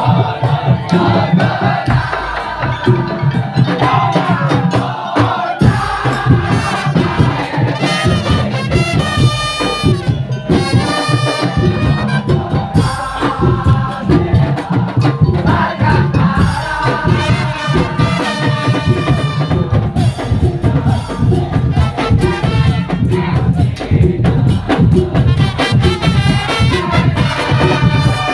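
Madurese tongtong (daul) music: a percussion troupe playing bamboo slit drums and drums in a dense, steady beat, with a pitched melody line over it.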